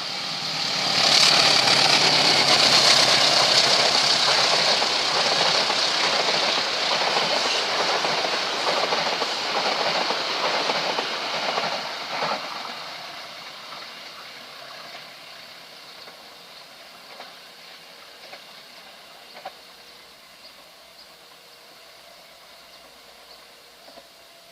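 A long passenger train passing close by, wheels clattering over the rail joints. It is loud for about twelve seconds, then fades away as the last cars pass.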